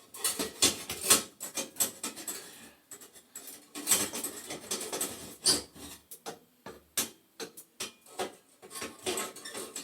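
Irregular metal clicks, taps and scraping as boiler burner and pilot parts are handled and fitted into place.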